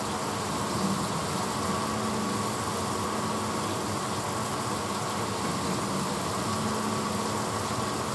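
1986 Hotpoint Potwasher dishwasher running mid-cycle: a steady motor hum with a steady hiss over it.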